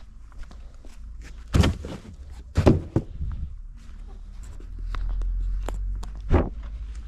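Footsteps moving about the house, with several heavier thuds and knocks, the loudest about one and a half, two and a half and six seconds in, over a low rumble.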